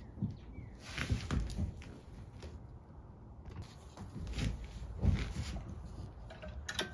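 Scattered light clicks, taps and rustling of small metal parts being handled during hand work on a small-engine carburetor, as bolts are tried and sorted.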